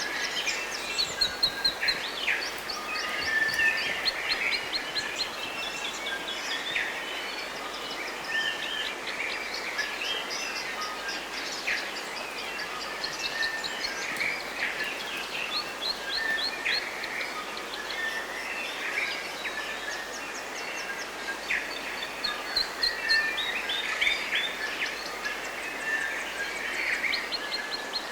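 Several songbirds singing and chirping at once in a continuous chorus, with rapid repeated trills and short whistled notes overlapping, over a steady soft hiss of background noise.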